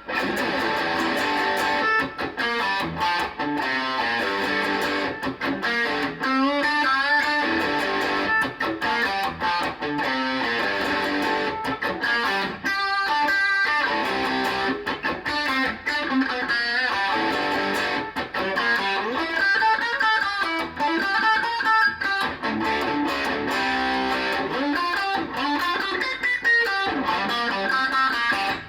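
ESP LTD EC-1000 electric guitar with EMG active pickups played through an amplifier, a continuous stream of quickly changing notes and chords with a few brief breaks.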